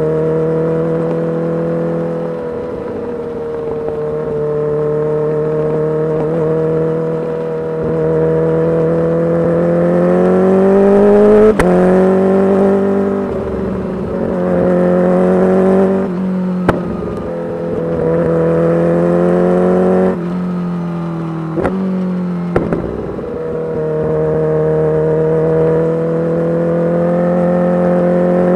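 Kawasaki Ninja H2's supercharged inline-four running through a full titanium exhaust under load. The engine note climbs slowly, then falls and picks up again several times, with a few sharp pops where the revs drop in the second half.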